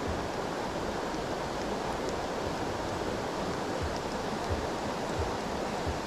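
Steady rushing of a fast mountain stream: an even wash of flowing water, with a few faint low thumps now and then.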